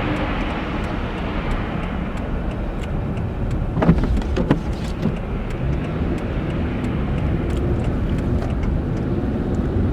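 Car driving on a snow-covered interstate: steady road and engine noise from inside the car, with tyres running through snow. A couple of short knocks come about four seconds in.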